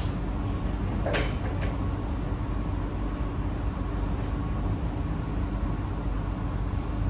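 Kawasaki C151A metro train running at speed, heard from inside the carriage: a steady rumble with faint steady tones and a brief sharp noise about a second in.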